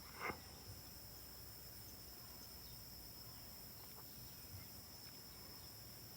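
Faint, steady high-pitched trilling of crickets, unbroken throughout.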